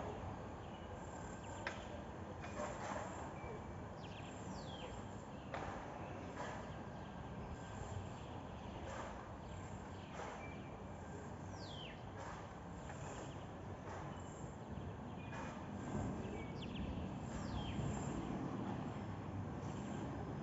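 Small birds calling: short, high chirps that fall quickly in pitch, repeated every few seconds over a steady background hiss.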